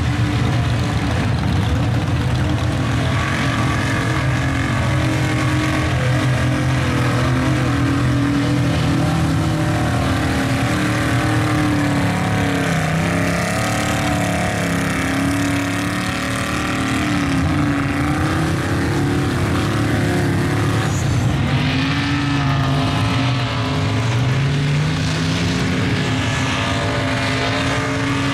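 Mud truck engines running hard and revving, with the pitch wavering as the throttle is worked and one engine revving up near the end.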